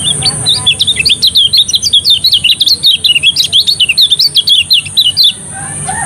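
A kecial kuning (lemon-bellied white-eye) singing a fast, unbroken twittering run of short, varied high notes that stops about five seconds in. A rooster's crow starts up again near the end.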